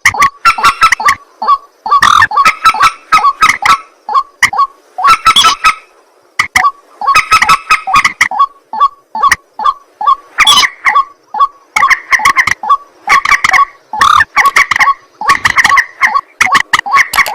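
Waterhen ('ruak-ruak') calls played from a recording: a loud, unbroken run of short, harsh, honking notes, several a second, bunched into repeated bursts.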